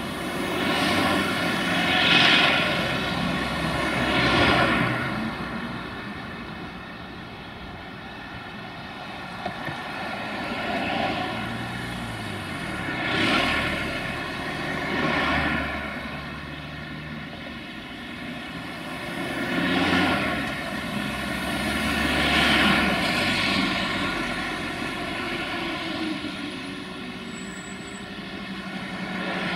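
Heavy freight train of log wagons rolling past, with the steady drone of its Sulzer-engined 060-DA (LDE2100) diesel-electric locomotive underneath. The rolling noise swells and fades every couple of seconds.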